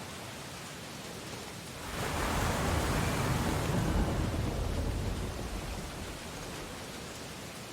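Ocean waves on a beach: a steady surf hiss, with one wave breaking about two seconds in, swelling into a loud rush, then washing out and fading a few seconds later.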